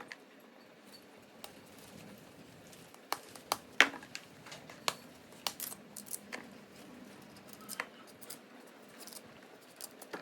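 Irregular light clicks and knocks of small hard objects being handled, the loudest about four seconds in, over a faint steady background hiss.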